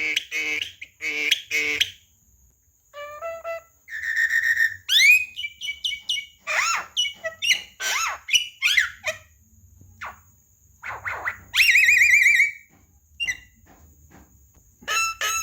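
Javan myna singing a varied run of whistles, squeaks and harsh chattering notes, with rising whistled glides and a rapid trill about twelve seconds in.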